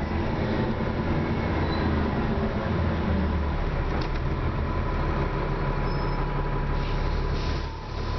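Dennis Trident double-decker bus heard from inside, its diesel engine and drivetrain running under way with a steady low drone and a thin, steady high whine over it. The sound drops briefly near the end.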